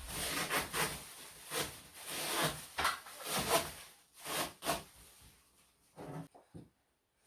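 Irregular rubbing and scraping strokes from hands working on air conditioner parts during cleaning, followed by a few short knocks near the end.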